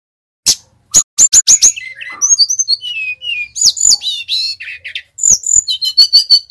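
Brown-chested jungle flycatcher (sikatan rimba dada coklat) singing a fast, varied song of sharp chips, slurred whistles and short trills. It starts about half a second in, pauses briefly near the end, then breaks off suddenly.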